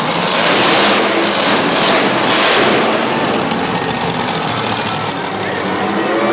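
Monster truck engine running in an indoor arena: a dense, loud wash of engine noise with a few faint rising and falling pitches.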